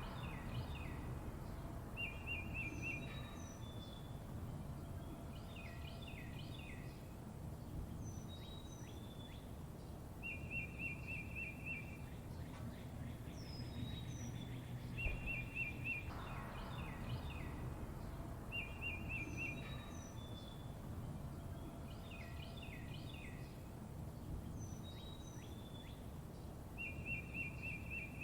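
Songbirds singing: a short, rapid trill recurs every few seconds, between clusters of quick downward-sliding chirps and thin high notes, over a steady low rumble.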